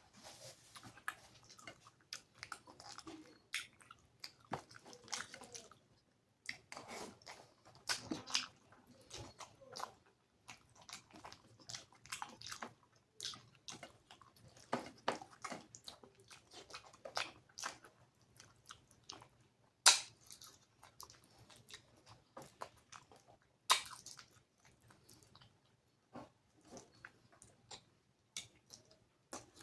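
A person chewing and biting mouthfuls of rice and curry close to the microphone: irregular wet mouth clicks and smacks, with two sharper, louder clicks about twenty and twenty-four seconds in.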